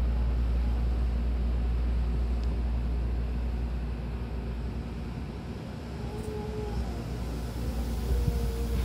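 Hankyu Kobe Line commuter train running, heard from inside the carriage: a steady low rumble that eases about five seconds in and swells again near the end, with a few faint brief squeals.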